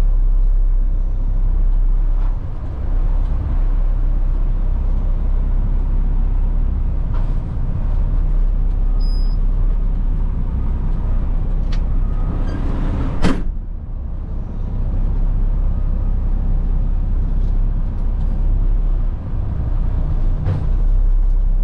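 Front-load garbage truck running, a steady low engine and road rumble heard from inside the cab, with one sharp clunk about thirteen seconds in.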